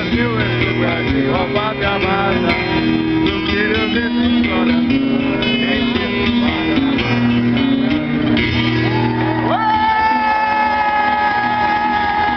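Guitar music with strummed and picked chords, then about two-thirds in a single note slides up and is held, sinking slightly at the end.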